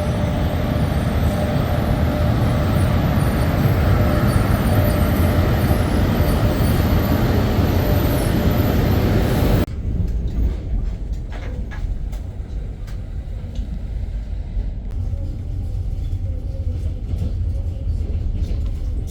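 Passenger train on the move: a loud, steady rumble with faint high whistling tones, which cuts off abruptly about ten seconds in to a quieter rumble with scattered clicks and knocks.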